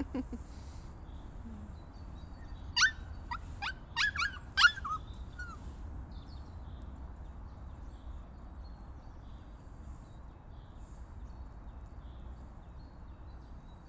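A small dog whining in a quick run of about six high, sharp yelps that drop in pitch, a few seconds in.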